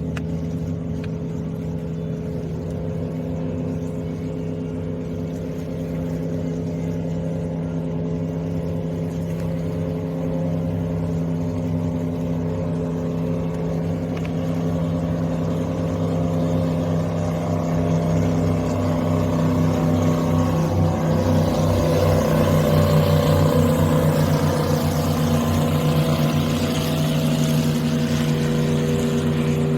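Jet boat engine running steadily, growing louder through the second half of the clip as the boat comes closer, with a hiss rising along with it near the end.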